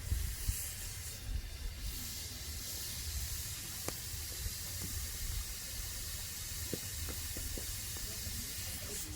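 Pressure cooker hissing steadily as steam escapes from its valve: it has come up to pressure. A low rumble runs underneath.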